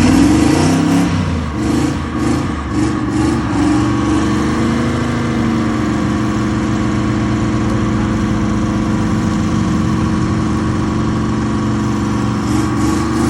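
Twin-turbo LS V8 engine revving in uneven blips for the first few seconds, then holding at a steady, raised speed, with a little more revving near the end.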